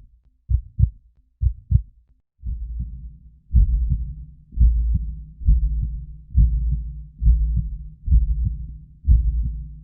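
Heartbeat: paired low thumps about once a second. From about two and a half seconds in, a continuous low whooshing runs through the beats and swells with each one.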